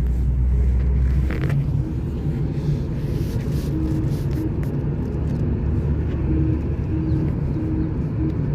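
A car driving, with a steady low engine and road rumble; the deepest part of the rumble eases about a second and a half in.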